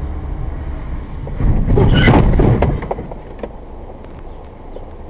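Car driving, with a steady low road and engine rumble as picked up by a dashcam. About one and a half seconds in, a much louder rough noise with a few sharp knocks lasts just over a second, then the rumble carries on more quietly.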